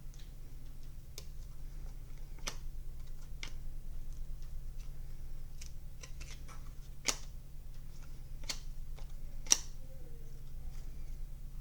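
Football trading cards being handled and flipped through: irregular light clicks and taps, two of them sharper, about seven and nine and a half seconds in, over a low steady hum.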